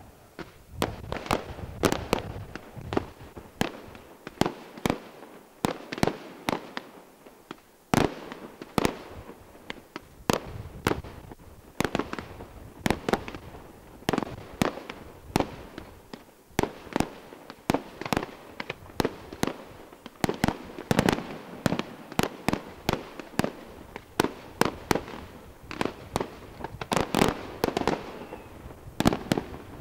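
Fireworks display: a continuous run of firework bursts, sharp bangs coming one to several a second, growing denser and louder near the end.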